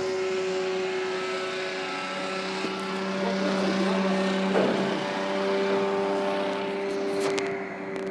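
Propeller engines of a flying boat droning steadily, swelling in the middle and easing off near the end.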